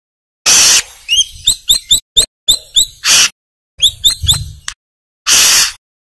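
Brown-throated sunbird (kolibri kelapa) calling: two runs of quick, sharp, high chirps, broken by three longer harsh, rasping notes.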